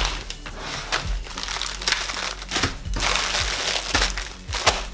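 Dry crinkling and crumpling as a garlic bulb is broken apart and its papery skin rubbed and peeled off the cloves, in an irregular run of small rustles.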